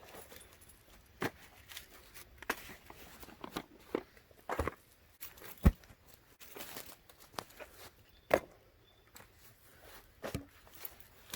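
Irregular crunches, snaps and rustles, as of dry leaves and twigs being stepped on or handled, with a sharp snap a little past halfway and another about three-quarters of the way through.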